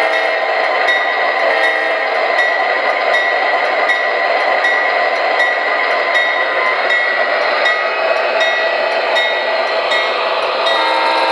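MTH Premier O-gauge ES44AC model diesel locomotive running on track, its onboard sound system playing a steady diesel engine sound over the whirr of motors and wheels, with light clicks about every 0.7 s. A new set of steady tones comes in near the end.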